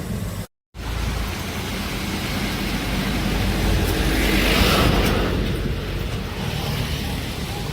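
Heavy earthmoving machinery running with a continuous low rumble under a steady wash of noise, swelling into a louder hiss about four to five seconds in. The sound drops out completely for a moment just after the start.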